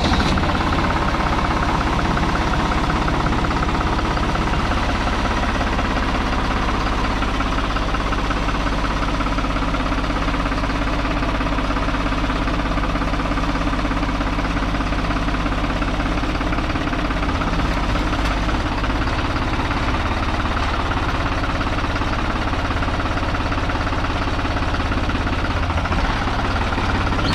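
New Holland T480S tractor's diesel engine running steadily at idle, freshly started after the gear-lever repair.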